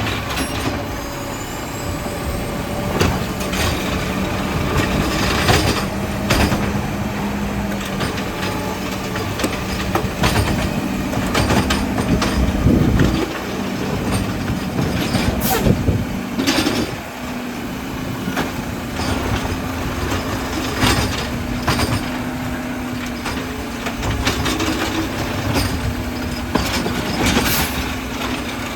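Garbage truck working at close range: its diesel engine runs steadily, shifting up in pitch about two-thirds of the way through, with repeated sharp metal clanks and knocks.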